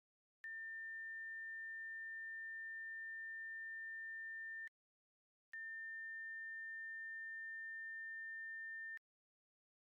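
Two long, steady electronic beeps at one pitch, each about four seconds long, starting and stopping abruptly with a short gap between them.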